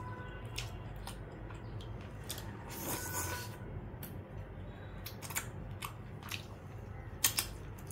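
Close-up eating sounds of rice and chicken curry eaten by hand: wet chewing, lip smacks and sharp mouth clicks scattered throughout, with a short noisy stretch about three seconds in as she bites the chicken.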